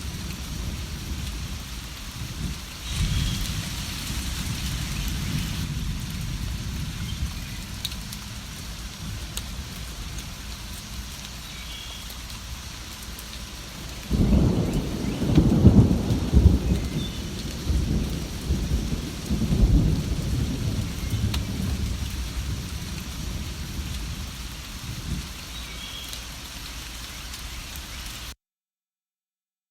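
Steady rain with rolling thunder: a low rumble a few seconds in, then a louder thunderclap about halfway through that rolls on in waves for several seconds before fading. The sound cuts off suddenly near the end.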